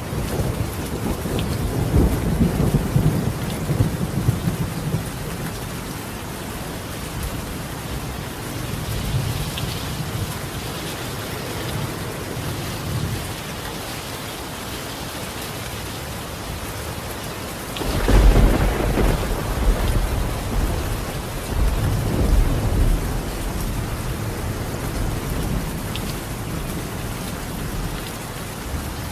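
Steady rain falling on a tiled roof, with thunder rumbling through it: one long roll a couple of seconds in, and a louder, sharper clap about two-thirds of the way through that rolls on for several seconds.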